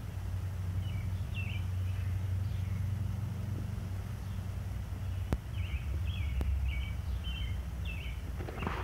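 Backyard ambience: a steady low rumble with a small bird chirping short notes, a couple about a second in and then a quick series from about five and a half to eight seconds in.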